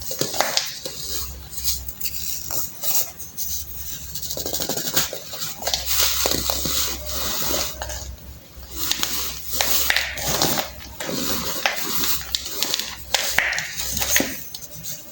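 Hardened baking soda being crushed, a continuous run of crunching and crumbling made of many quick, irregular cracks.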